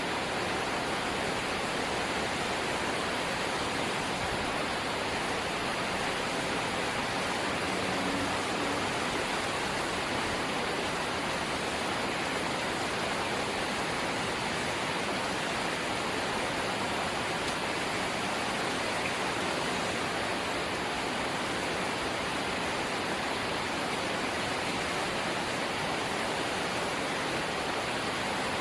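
Light rain falling steadily: a constant, even hiss with no single drops standing out.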